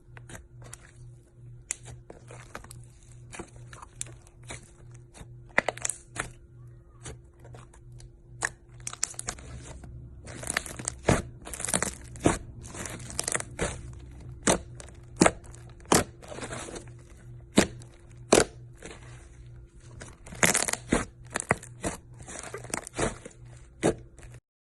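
Slime being pressed, poked and stretched by hand, giving many sharp sticky clicks and pops, louder and more frequent from about ten seconds in, over a faint steady hum. The sound cuts off abruptly near the end.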